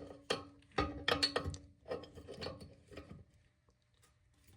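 Metal tool clicking and knocking against a toilet tank's tank-to-bowl bolt as it is unscrewed: a string of sharp clicks, some followed by a brief ringing, that thin out and stop for the last second or so.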